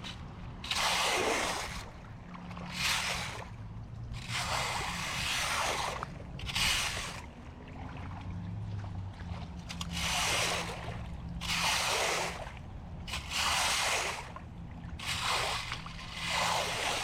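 Floodwater splashing and sloshing in repeated irregular rushes about a second long, over a low steady hum.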